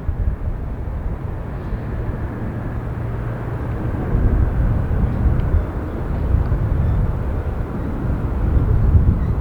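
Jet airliner engine noise: a steady low rumble, with wind buffeting the microphone.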